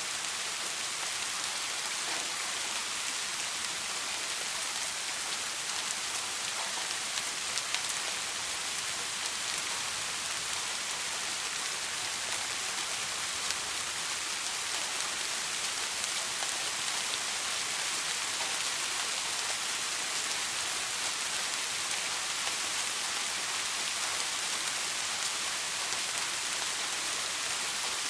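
Steady rain falling: an even hiss with a few louder individual drops ticking through it, around 8 and 13 seconds in.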